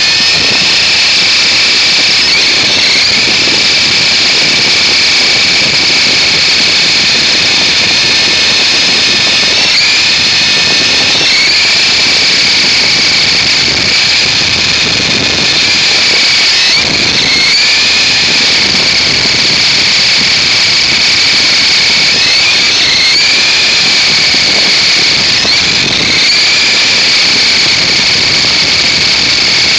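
Toy RC helicopter's electric motor and rotor running with a loud, steady high whine, its pitch dipping briefly and recovering about six times as the throttle changes.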